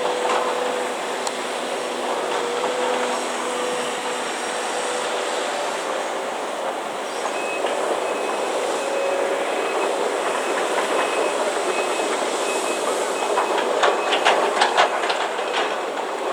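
Heavy construction machinery running with a steady mechanical drone and a held hum, with a burst of metal clanking and rattling near the end.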